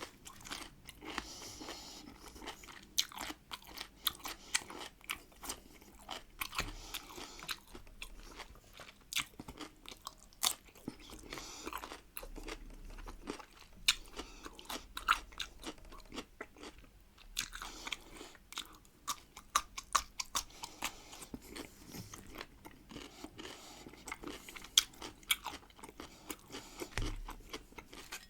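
Salted pickled cucumbers being bitten and chewed close to the microphone: repeated crisp crunches and chewing.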